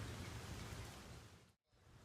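Recorded steady rain, an even hiss, fading out to a moment of silence about one and a half seconds in, then fading back in.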